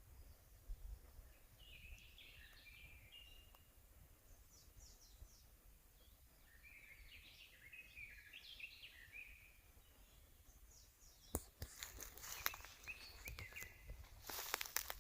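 Faint songbird song in a forest: two short warbling phrases a few seconds apart. Near the end, a run of sharp crackles and rustles, like twigs or leaves being stepped on or handled.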